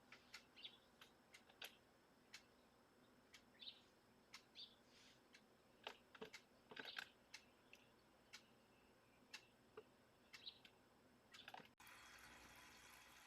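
Very faint bird chirps, short and high, mixed with scattered light clicks; a steady hiss comes in near the end.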